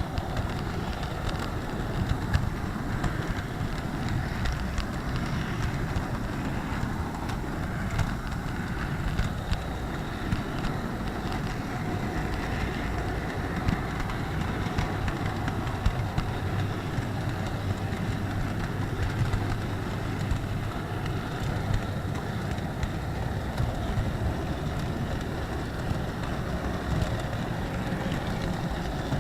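HO-scale model train running, heard from a keychain camera riding on one of its wagons: a steady rumble of wheels on track and motor hum, with many small clicks.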